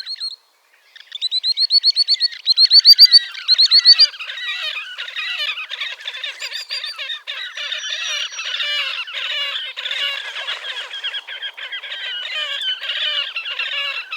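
Slavonian grebes calling: about a second in, a fast, loud run of short rising notes for about three seconds, followed by a dense, continuous chatter of overlapping trilling calls.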